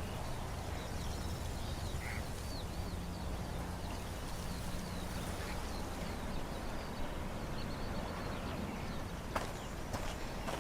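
Outdoor film ambience: small birds chirping faintly over a steady low background, with a few sharp clicks near the end.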